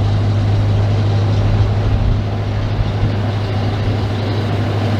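Narrowboat engine running steadily under way, a constant low drone, with wind buffeting the microphone.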